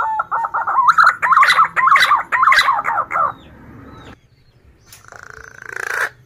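Male punai daun (green pigeon) song: a fast run of wavering, quavering whistled notes for about three seconds, then a short hiss near the end.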